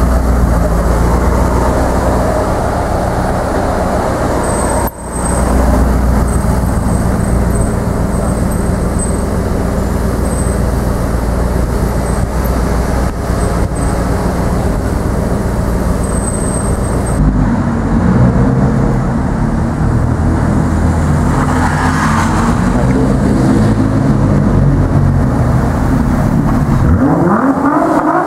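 Supercar engines running at low speed: first a mid-engined supercar moving off along a street. After a cut about 17 seconds in, a Nissan GT-R's twin-turbo V6 runs in an underground car park and is revved near the end, its pitch rising and falling.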